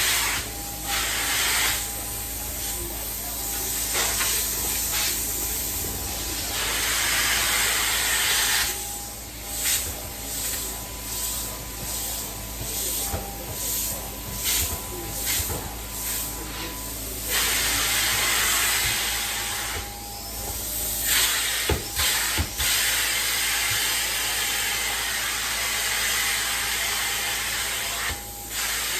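Carpet-cleaning extraction wand hissing as it sprays and sucks. The hiss comes in a run of short strokes in quick succession midway, then in longer steady passes, over a low steady machine hum.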